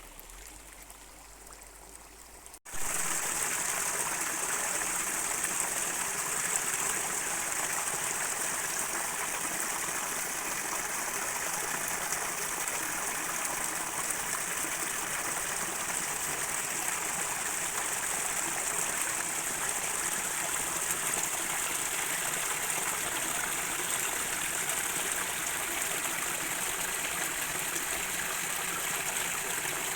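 Steady rushing of a stream's flowing water, starting abruptly and loudly about two and a half seconds in after a quieter stretch.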